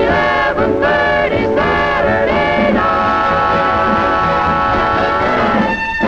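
Swing dance band playing the ending of a song: a few short, punched chords, then one long held final chord that breaks off near the end.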